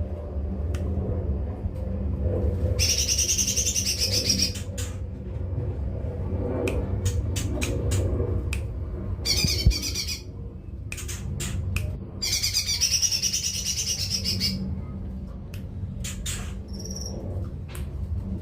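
Lesser green leafbird singing three rapid, high, chattering phrases: about two seconds in, a shorter one near the middle, and another about two seconds long after that, with a single short note later. Sharp clicks fall between the phrases over a steady low hum.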